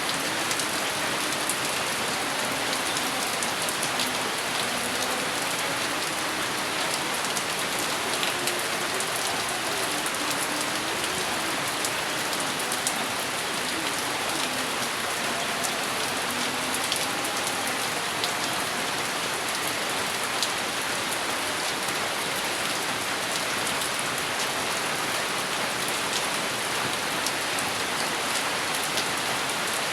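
Steady rain falling, with the patter of individual drops striking a surface and no thunder.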